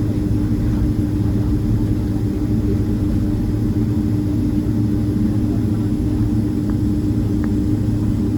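Steady, loud drone of a Boeing 767-300ER's jet engines heard inside the passenger cabin, with an even low hum that neither rises nor falls.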